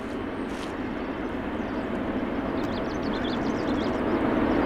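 Jet airliner engines running, a steady rumble that slowly grows louder, with a few faint high chirps in the middle.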